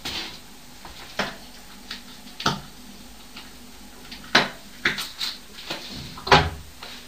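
Household knocks and thumps from a neighbouring flat: about eight sharp knocks at uneven intervals, the loudest a heavier thud about six seconds in.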